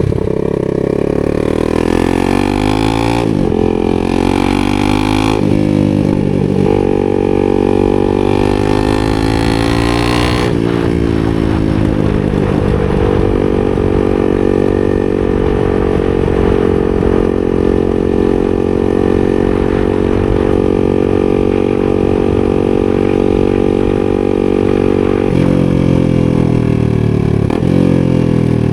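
250 cc supermoto motorcycle engine under way, revs falling and rising through several gear changes in the first ten seconds. It then holds a steady pitch for about thirteen seconds before another shift, and the revs fall away near the end.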